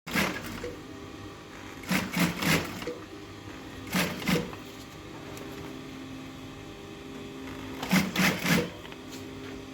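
Upholstery sewing machine stitching in four short runs, each under a second, over a steady motor hum.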